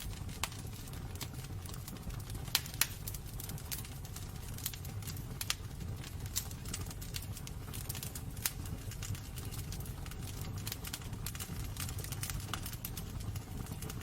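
Wood fire burning in a fireplace: irregular sharp crackles and pops over a steady low rumble of the flames, with a couple of louder pops about two and a half seconds in.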